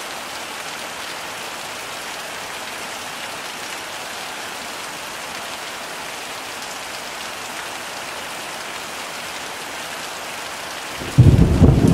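Heavy rain falling steadily. About eleven seconds in, a sudden loud, low thunder rumble breaks in over the rain.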